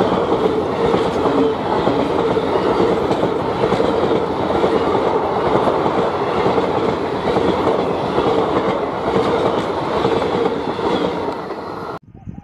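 Blue passenger coaches of an Indian Railways express passing close by at speed: a steady rumble of wheels on rail with a steady whine and light clacking over the rail joints. It cuts off suddenly near the end.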